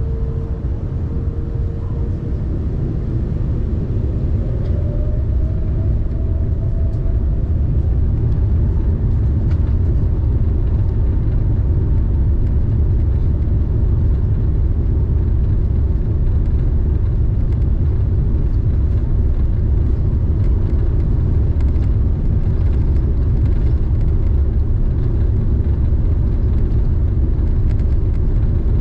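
Airbus A380 cabin noise on the takeoff roll: the Rolls-Royce Trent 900 engines' low rumble builds over the first several seconds, with a rising whine about four to seven seconds in, then holds loud and steady.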